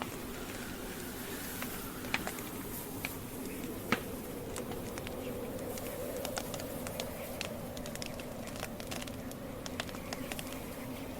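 Wood campfire burning: a steady low rush under irregular sharp crackles and pops of burning logs, with one louder pop about four seconds in.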